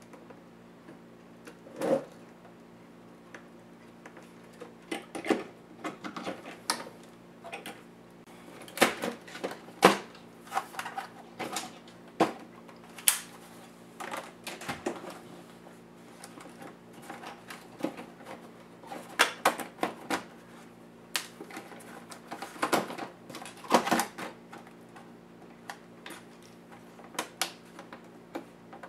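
Irregular clicks, taps and clatter of small plastic and metal laptop parts being handled and pried apart during disassembly of an ASUS A6000 notebook, over a steady low hum.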